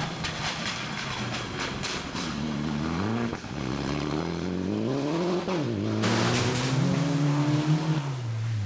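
Rally car engine revving hard through the gears, its pitch climbing and dropping sharply twice, then held high as it goes by. Sharp crackles in the first two seconds, and a rushing noise swells about six seconds in.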